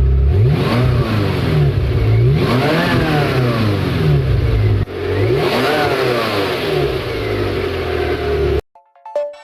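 Ferrari 348's V8 engine and exhaust, idling and then blipped three times, each rev rising sharply and falling back to idle. The sound cuts off suddenly near the end and music begins.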